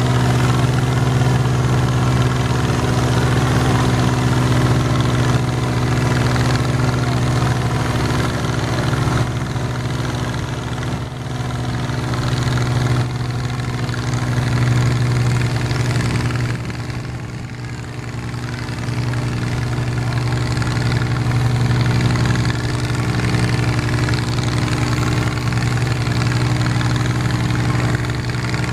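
Garden tractor engine running steadily with a deep, even hum. It eases off briefly about two-thirds of the way through, then picks back up.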